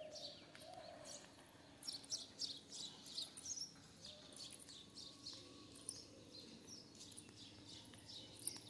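Faint bird chirping from the trees: many short, high calls in quick succession, busiest about two to four seconds in.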